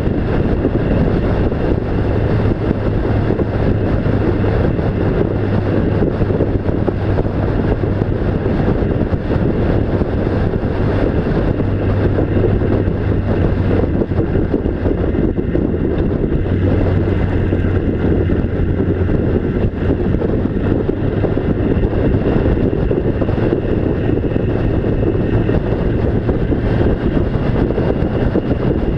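A vehicle's engine droning steadily under constant road and wind noise, its low hum dropping slightly in pitch about halfway through.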